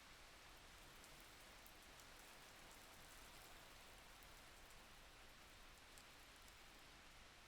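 Faint, steady rain: an even soft hiss with the occasional light tick of single drops.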